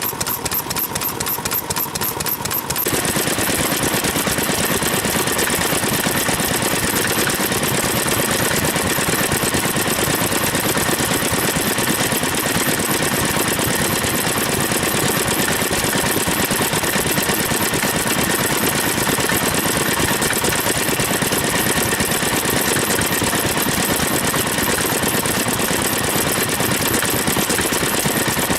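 Vintage stationary engines running with a rapid, steady firing beat. About three seconds in the sound changes abruptly to a louder, fuller run.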